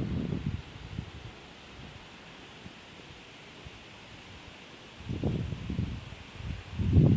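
Outdoor countryside ambience: a steady high-pitched insect chirring, joined about five seconds in by irregular low rumbling gusts that grow loud at the end.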